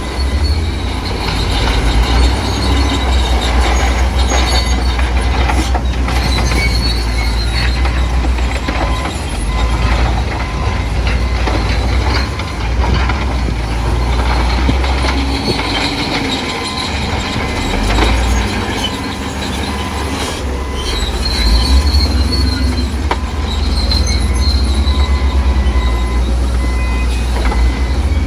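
Bulldozer running under load, its engine giving a heavy low rumble while the steel tracks squeal and clank, the squeals coming and going.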